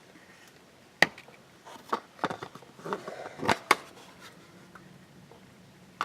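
A few short, sharp clicks and knocks: one about a second in, two more around two seconds, and a close pair near the middle, with faint background between them.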